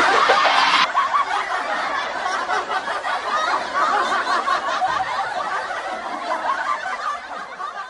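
High-pitched, wavering laughter that fades out toward the end. Over the first second a loud rushing noise cuts off suddenly.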